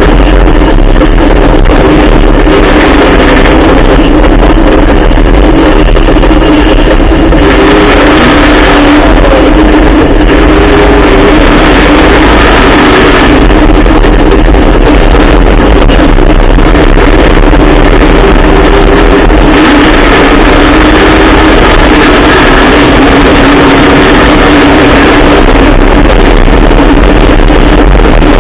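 Trophy truck's Dart 363 Coyote-based Ford V8 running very loud and steady, its pitch wavering a little without big revs.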